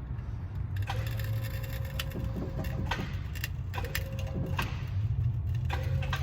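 Crane lifting on a Cat 299 skid steer's track in short bursts to load the track adjuster: a steady whine starts and stops three times, each time with a click, over a steady low engine hum.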